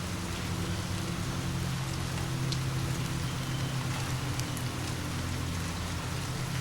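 Steady rain falling, an even hiss with a low steady rumble underneath and a few faint ticks of drops.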